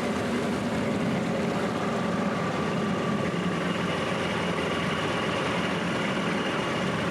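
Outboard motor of a Zodiac inflatable raft running steadily, a constant engine drone with no change in speed.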